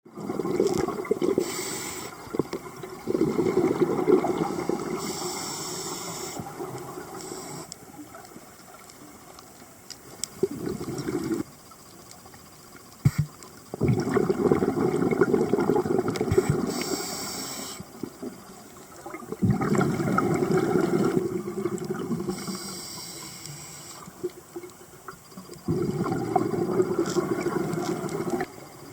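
Scuba diver breathing through a regulator underwater: bubbling exhales that fade out, repeating about every five to six seconds, with a short hiss of the regulator on some inhales.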